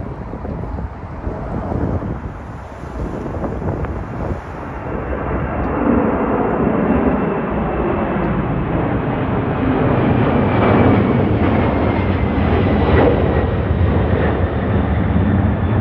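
Jet airliner passing, its engine noise building to a steady rush about five seconds in, with a faint falling whine near the end.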